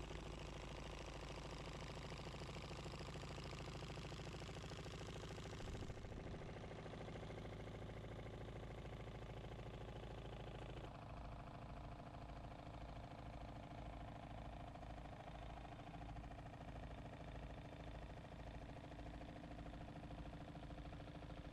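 Reeves Unicorn model horizontal steam engine running on compressed air, with a steady, rapid mechanical beat. The sound shifts abruptly about six seconds in and again about eleven seconds in, after which a slower low pulse comes roughly twice a second.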